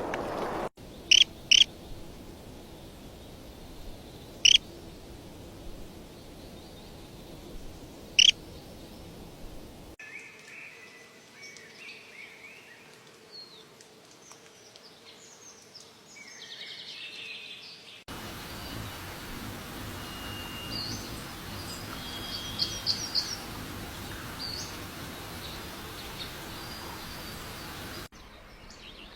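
Small birds chirping over steady outdoor background noise, in several short recordings joined with abrupt cuts. First come four loud, sharp single chirps a few seconds apart, then softer, varied warbling song, then quick runs of high chirps.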